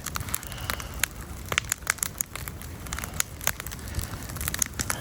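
Wood campfire crackling, with frequent irregular sharp pops over a low steady rumble.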